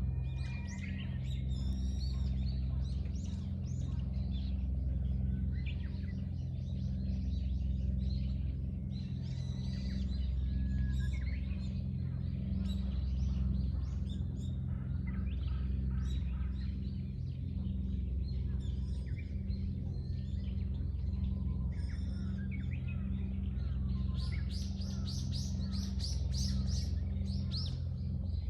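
Small songbirds chirping and singing, many short calls and trills, thickening into a dense run of rapid chirps near the end, over a steady low hum.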